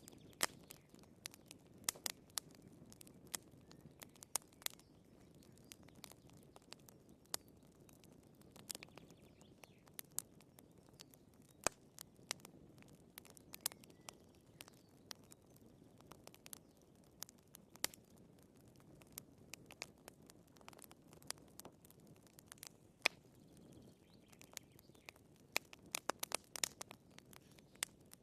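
Wood fire in a fireplace crackling: irregular sharp pops and snaps of burning firewood over a faint, steady low rush of flame, with a quick cluster of pops near the end.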